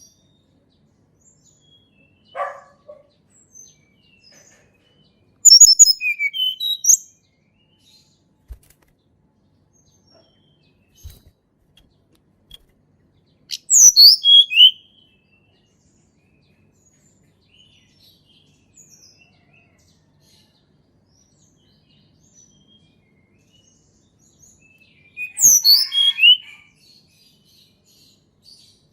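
A tledekan gunung songbird singing three short, loud phrases of high, quickly falling whistled notes, spaced several seconds apart, with a fainter single call before the first.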